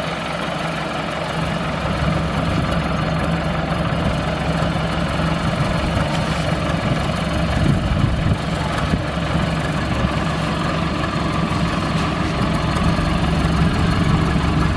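Crown rice combine harvester's engine running steadily, a constant low drone.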